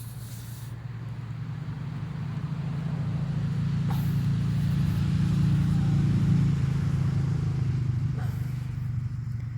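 A motor vehicle driving past. Its low engine rumble grows steadily louder, is loudest about six seconds in, then fades away.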